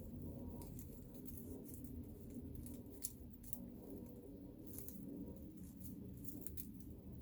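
Faint, crisp little clicks and crinkles at irregular intervals, from craft materials such as dried plant pieces and paper being handled, over a low steady hum.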